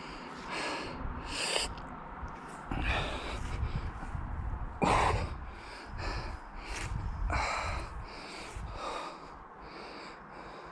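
A man's heavy, ragged breathing in pain: a series of sharp breaths, about one every second or two, from a runner who has just strained his calf. The breaths grow fainter near the end.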